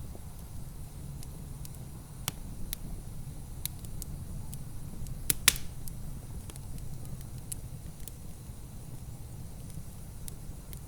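Wood fire crackling in a fireplace: scattered sharp pops and snaps over a steady low rumble, with the loudest pops about two seconds in and a close pair about five seconds in.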